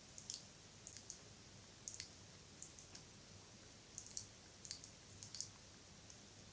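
Close-miked wet mouth sounds: small clicks and smacks of lips and tongue, coming in little clusters about once a second.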